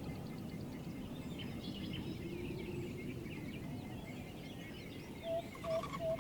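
Jungle ambience: many small birds chirping and whistling over a steady low background hum. About five seconds in, a loud repeating call starts, about three short notes a second.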